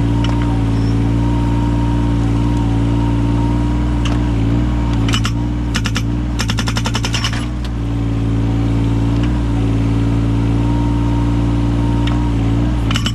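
Yanmar 017 mini excavator's diesel engine running steadily, with short bursts of rapid hydraulic-breaker hammering as the axe-shaped chisel splits firewood, a little after the middle and again near the end.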